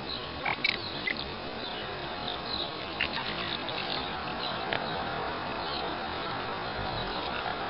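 Steady outdoor background hiss with a few brief, high bird chirps scattered through it.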